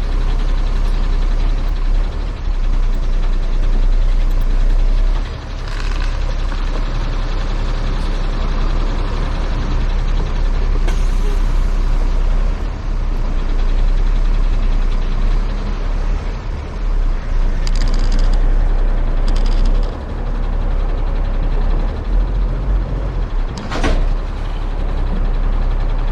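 Heavy truck engine running steadily with a constant low rumble, with a few short hisses and a sharp knock near the end.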